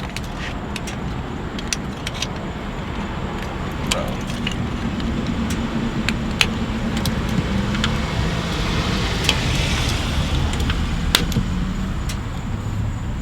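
Steady low hum of a running motor vehicle, with scattered light clicks over it.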